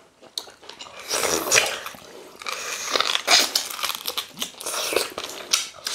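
Close-up eating sounds of two people eating ogbono soup and fufu by hand: wet biting and chewing of meat, mouth smacks and finger-licking, coming in irregular bursts from about a second in.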